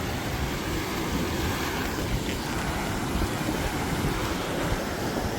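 Estuary water rushing out through its freshly broken mouth into the surf, a steady roar of water, with wind buffeting the microphone.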